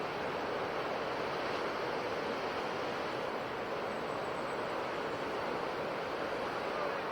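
Sea waves washing on a shore, a steady unbroken rush of surf.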